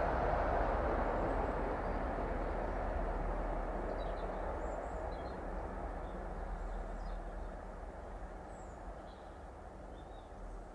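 Rumble of an electric express train crossing a metal bridge, fading steadily as the train moves away. From about four seconds in, faint bird chirps come through as the rumble dies down.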